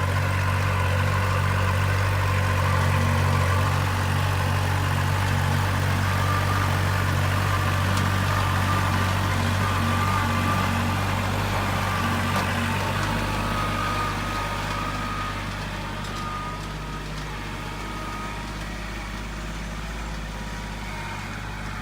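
A vehicle engine running steadily. Its low note shifts down about 13 seconds in, and it runs quieter from about 15 seconds on.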